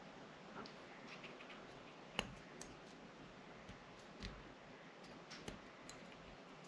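Faint, scattered clicks and taps of a small driver on metal as the mounting screws of a red dot sight are tightened on a pistol slide, with a sharper click about two seconds in.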